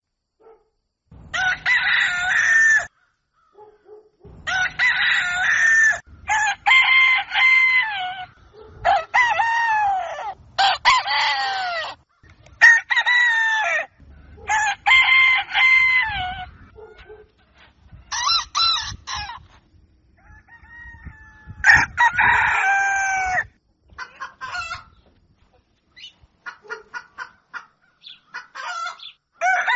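Rooster crowing, one cock-a-doodle-doo after another, each crow about one and a half to two seconds long with short silent gaps between. Near the end come quicker, short clucking calls.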